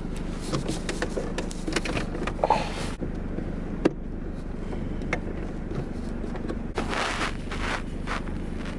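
Car engine idling, a steady low hum inside the cabin, overlaid with clicks, knocks and rustling from a camera mount being handled close to the microphone; one sharp click about four seconds in.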